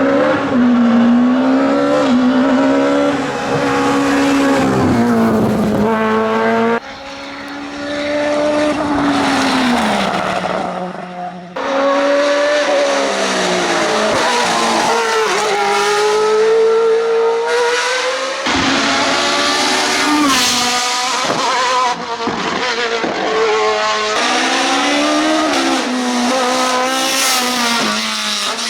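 Hillclimb racing car engines at full throttle, their pitch climbing through each gear and dropping at the shifts, heard as several separate runs cut one after another.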